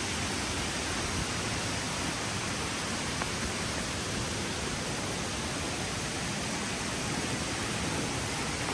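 Steady rushing of water from a waterfall, an even hiss with no breaks.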